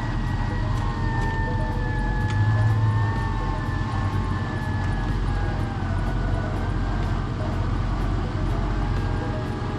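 Electric winch motor whining under load as it reels in cable, its pitch sagging slowly as the pull goes on, over the low rumble of idling truck engines.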